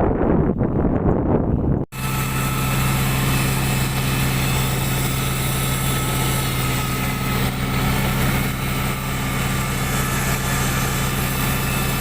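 An irregular rough clatter for about two seconds, then, after an abrupt cut, a tractor engine running steadily at an even pitch.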